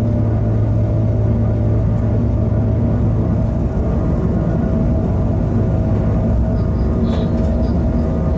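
Electric freight locomotive running at speed, heard from the cab: a steady rumble of wheels on rail with a hum from the traction equipment. A low hum drops away about three and a half seconds in, and a few short high squeaks come near the end.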